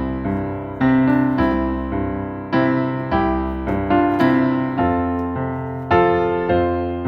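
Slow, gentle piano music: chords struck about once a second, each ringing and dying away before the next.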